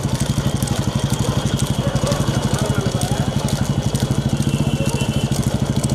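Motorcycle engine running at a steady speed close by, its firing making a fast, even throb.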